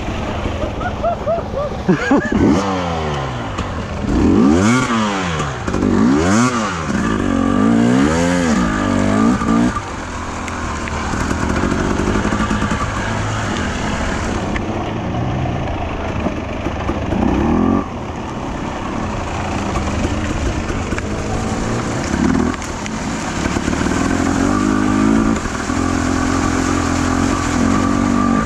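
Enduro motorcycle engine revving up and down in quick repeated surges, then running at a steadier throttle with occasional swells for the rest of the time.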